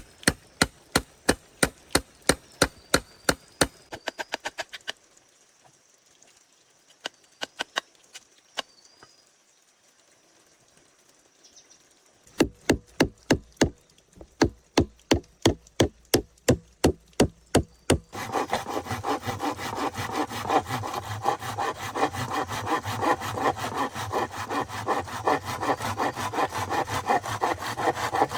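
Wood worked by hand: quick, sharp knocks on wood, about three or four a second, stop after about five seconds and start again a few seconds later. Past the middle they give way to a steady, loud rasp of a hand saw cutting through wood.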